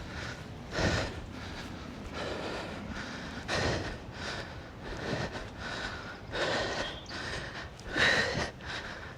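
A man breathing hard from kettlebell exertion: forceful breaths about every one and a half seconds, the strongest near the end, over a steady hiss.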